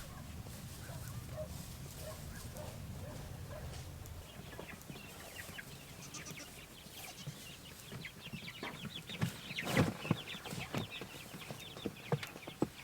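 A tote of young meat chicks peeping: many short, high cheeps start about four seconds in and carry on. A few knocks sound among them, the loudest near the end.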